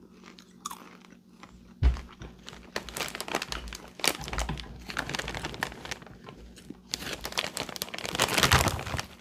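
Popcorn being chewed close to the microphone: dense, irregular crisp crunching. A single sharp thump comes about two seconds in, just before the crunching starts.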